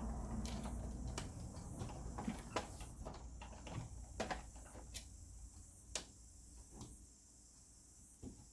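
Irregular light clicks and taps of projector parts being handled and taken apart, over a faint low hum that fades away.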